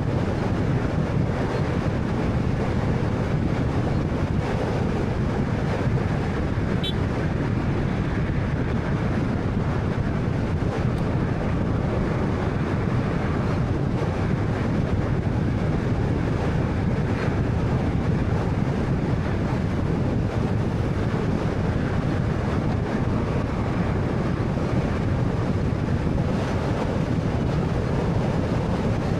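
Steady road and tyre noise with a low engine hum from a 2013 Honda Fit's 1.3-litre four-cylinder engine cruising, with some wind noise.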